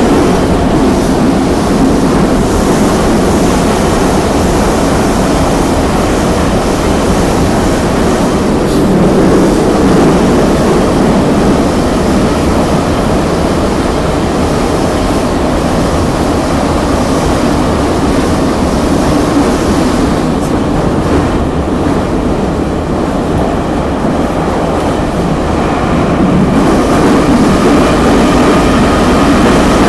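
Metro train running through a tunnel, heard from inside the carriage: a loud, steady rumble and roar of wheels on rails. The noise eases a little for a few seconds past the middle, then a faint rising whine of the traction motors comes in near the end.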